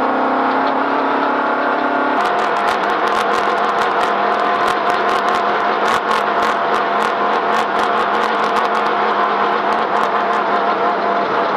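Off-road race vehicle's engine running hard at speed over rough, rocky ground. From about two seconds in, a rapid stream of clicks and knocks from the terrain rides over the steady engine note.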